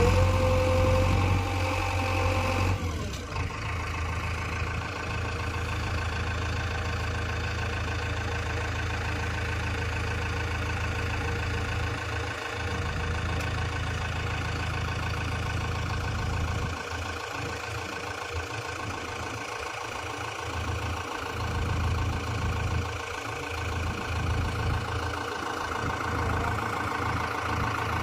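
A heavy diesel machine engine running steadily, louder for the first three seconds, then settling to an even idle.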